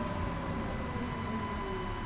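Interior of a Tatra T5C5K tram in motion: steady running noise with a thin high hum, and an electric whine that slowly falls in pitch as the tram slows.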